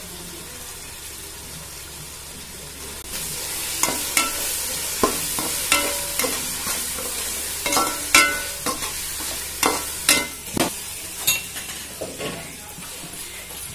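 Small onions and tomatoes frying in hot oil in a metal pan, sizzling, with the sizzle growing louder about three seconds in. A spatula stirs them, scraping and clacking against the pan many times through the middle.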